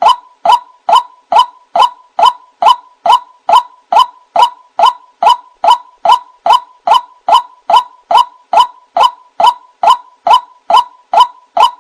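White-breasted waterhen calling: a long, even run of short, loud notes, about three a second. It is the repeated call used as a lure to draw other waterhens in.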